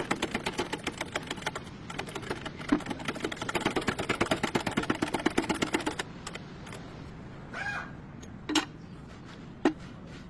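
Rapid, even clicking from a hand tool at about eight to nine clicks a second, in two runs, the second longer. It is followed by three single knocks.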